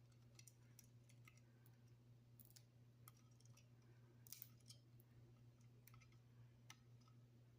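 Faint, irregular small clicks and cracks of a young Indian ringneck parakeet's beak working a seed, over a low steady hum.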